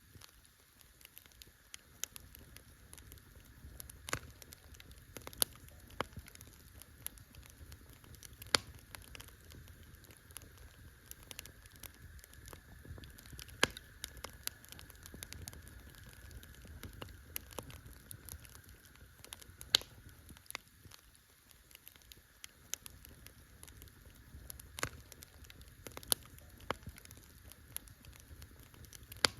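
Wood campfire crackling: irregular sharp snaps and pops, a handful of them noticeably louder, over a faint steady hiss.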